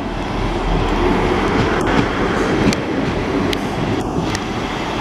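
GWR Class 158 diesel multiple unit passing close by: a steady rumble of engines and wheels on the rails, with a few sharp clicks through the middle.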